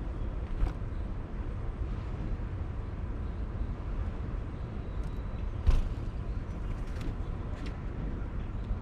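Steady low outdoor rumble with a few sharp taps and knocks on the feeder, the loudest about six seconds in.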